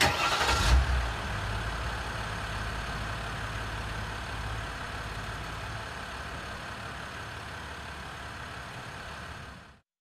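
2019 Ram Heavy Duty pickup truck's engine starting with a loud burst in the first second, then running steadily with a low rumble that eases slightly before cutting off near the end.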